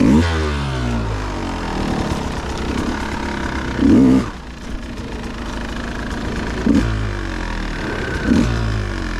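Dirt bike engine revving in short throttle blips on the trail, with a sharp rev at the start and another about four seconds in, then smaller quick blips near the end.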